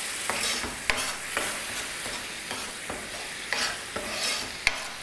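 Tomato-and-spice masala sizzling in ghee in a pan while a metal spoon stirs and scrapes it, with irregular sharp clicks of the spoon against the pan. The masala is being fried until the ghee separates from it.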